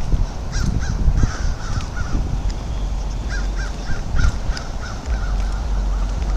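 Crows cawing over and over in short, repeated calls, over a steady low rumble.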